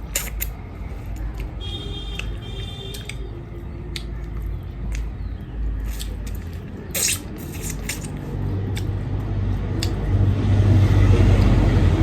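Eating sounds: chewing and squishing of curry and rice, with scattered small clicks of dishes, over a low rumble that swells louder near the end.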